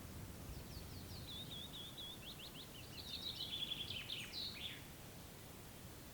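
A songbird sings one song of about four seconds: a run of quick falling notes and trills that grows louder and ends in a short flourish.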